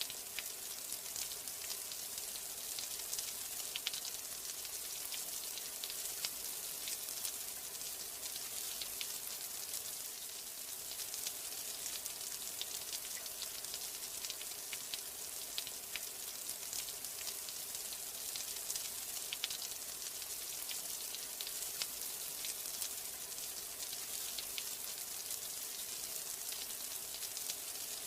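Steady rain: an even hiss with many scattered, sharp individual drop ticks.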